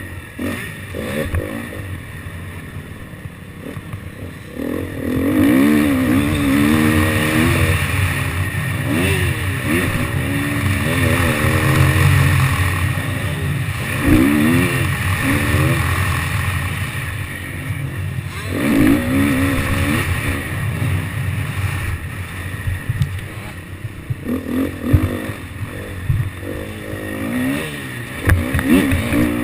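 KTM motocross bike engine revving up and falling back over and over as it is ridden around the track, with a heavy low rumble of wind on the microphone.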